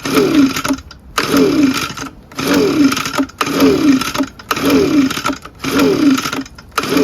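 Echo ES-250 two-stroke leaf blower engine cranked by its recoil starter, seven pulls about a second apart, each a brief whirr that falls in pitch, and it never fires. It turns over too easily, a sign of lost compression that the owner puts down to a scored piston and bore.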